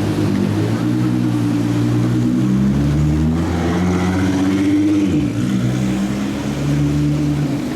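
Several supercar engines running at once as cars pull away, their notes overlapping. One engine's pitch drops about five seconds in.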